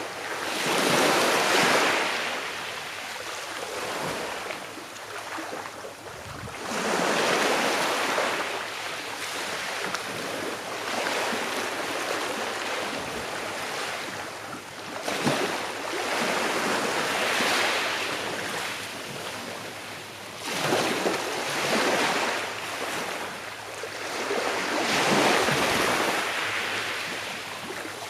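Small sea waves breaking and washing up a shore, each one swelling into a hissing rush and then drawing back, about five in a row a few seconds apart.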